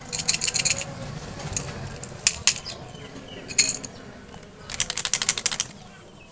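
Candy packaging being handled and unwrapped: two runs of quick, dense crackling, at the start and again about five seconds in, with a few single sharp clicks between them.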